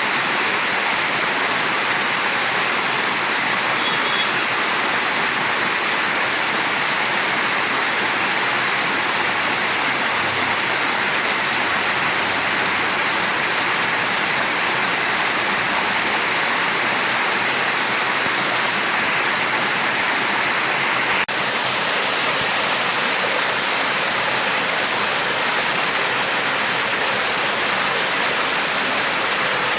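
Mountain stream flowing steadily, an even, unbroken rush of water.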